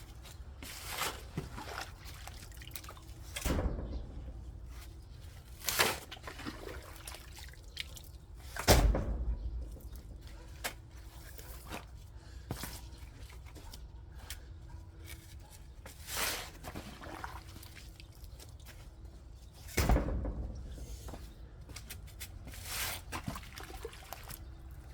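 Field work in soil: about half a dozen irregular thuds and scrapes, with rustling between them.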